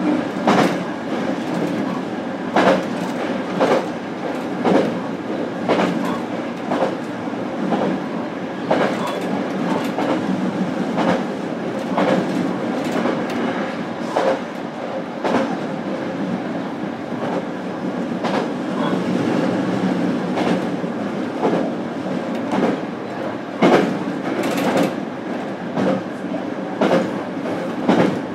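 Running sound heard inside a JR Kyushu BEC819 series 'DENCHA' battery electric train's motor car at steady speed: a continuous rumble of wheels on rail, with sharp rail-joint clicks about once a second.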